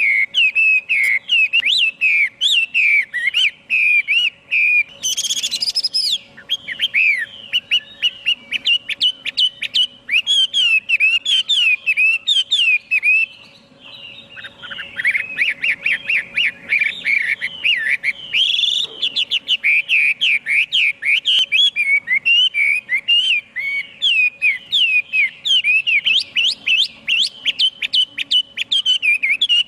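Chinese hwamei singing: a long, rapid, varied run of loud whistled phrases that breaks off briefly about halfway, over a faint steady hum.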